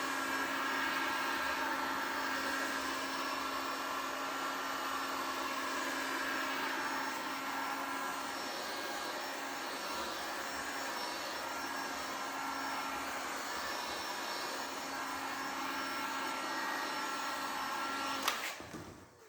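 A hand-held electric tool with a fan-like whir runs steadily with a constant hum, then is switched off with a click near the end.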